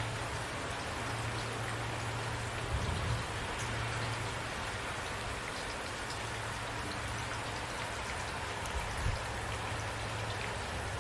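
Steady rain falling, with a constant low hum beneath it. Two brief, soft low thuds come about three seconds and about nine seconds in.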